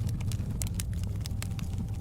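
Wood fire in a fireplace crackling, with many quick, irregular snaps and pops over a steady low rumble of the flames.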